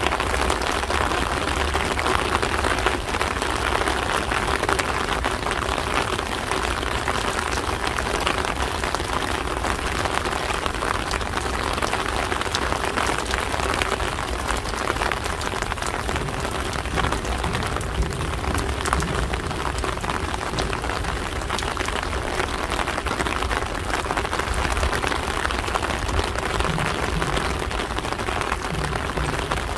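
Steady rain falling and pattering on surfaces, with many fine drop ticks over a continuous hiss.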